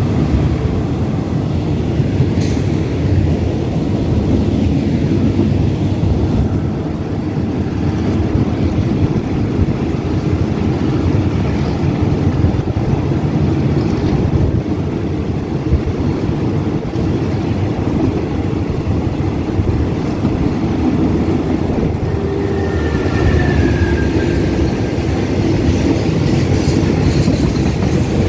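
Steady rumble of a moving passenger train heard at an open carriage window, its wheels running over the rails. In the last seconds a container freight train comes alongside on the next track, adding a hissing rush.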